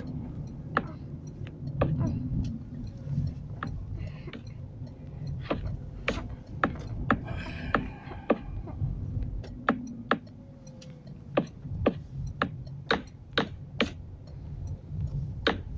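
A series of sharp, irregular clicks and knocks, several a second at times, over a steady low rumble.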